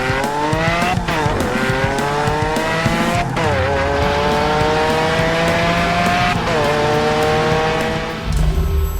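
Cartoon vehicle engine sound effect: an engine revving up in a rising whine, dropping back sharply about a second in, again after three seconds and again past six seconds, like shifting up through the gears.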